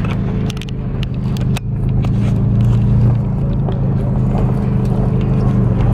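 A car engine running steadily at low speed, heard from inside the cabin, with a few scattered clicks over the rumble.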